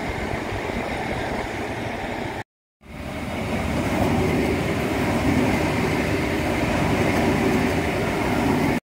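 Electric passenger train running past, a steady rumble and rush of wheels on the rails. The sound drops out briefly about two and a half seconds in, then comes back louder as the train passes close by.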